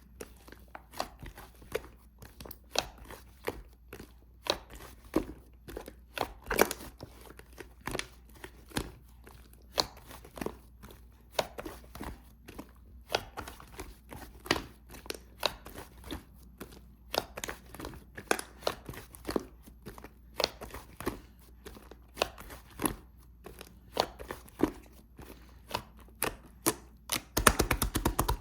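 Slime being squeezed and poked by hand, giving sharp crackling pops about twice a second, with a quick run of pops near the end.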